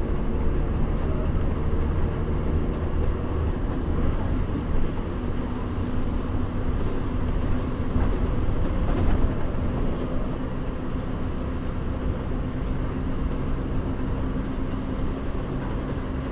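A bus in motion heard from inside, with a steady engine hum and road rumble. A steady engine note comes in a few seconds in, and there are a few light knocks or rattles.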